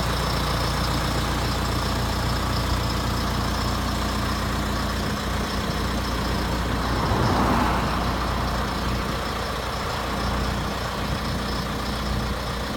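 John Deere 6230 tractor's diesel engine running steadily at idle. A brief louder swell comes about seven seconds in.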